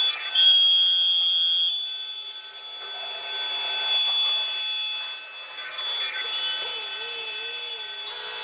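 CNC glass milling machine's high-speed spindle whining as it grinds glass: a steady high-pitched whine over a grinding hiss that cuts in and out sharply a few times.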